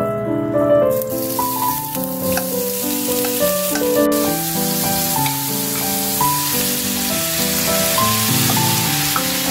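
Diced raw chicken breast sizzling as it hits hot oil in a nonstick frying pan, the hiss starting about a second in and holding steady. A gentle piano waltz plays over it.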